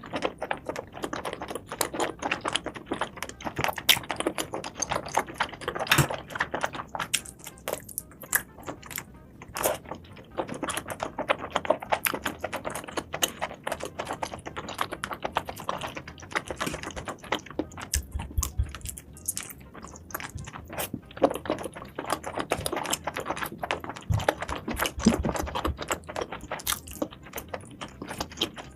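Eating sounds: a dense, irregular run of crisp clicks and crunches from chewing and biting seafood.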